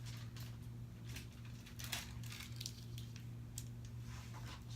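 Faint rustles and small clicks of a paper picture book being handled as a page is turned, over a steady low hum.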